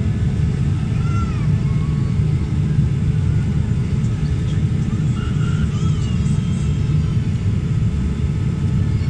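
Airliner's steady low rumble of engines and rushing air during the landing approach, with a few faint, short gliding tones above it.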